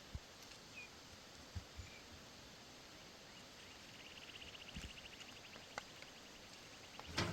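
Quiet outdoor ambience: a rapid, evenly pulsed high-pitched trill from a small creature begins about halfway through, with scattered soft knocks and one sharper click near the end.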